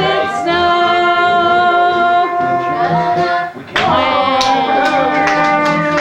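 Voices singing, holding long sustained notes, with a brief break about three and a half seconds in before the singing resumes.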